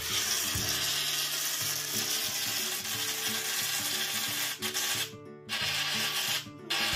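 Balloons deflating through their stretched, pinched necks, making 'balloon farts': a long raspy hiss of escaping air that breaks off briefly twice near the end.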